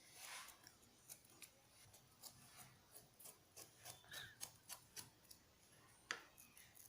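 Faint marker pen scribbling on a foam squishy toy: a run of short scratchy strokes.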